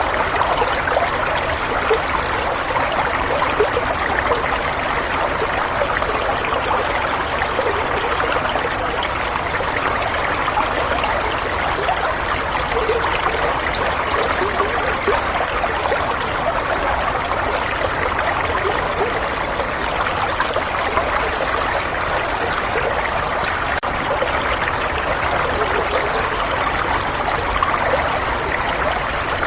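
Running water, a steady stream or brook flowing without a break, its sound centred in the middle range and used as soothing white noise.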